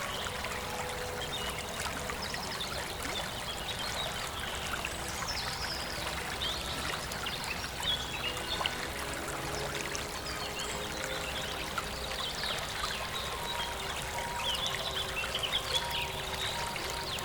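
Steady rush of running water from a stream or small waterfall, with short high chirps scattered over it that come thickest near the end.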